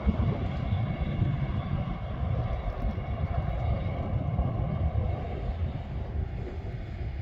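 A Northern diesel train running past with a steady engine drone, under heavy wind rumble on the microphone.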